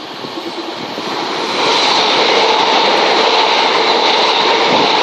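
Eight-car Southeastern Class 375 Electrostar electric multiple unit approaching. It grows louder over the first two seconds, then holds a steady loud rush of wheels on rails and traction equipment.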